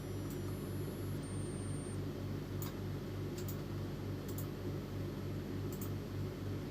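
Epson L310 inkjet printer running its head-cleaning cycle: a steady low motor hum that pulses about four times a second, with a few faint ticks.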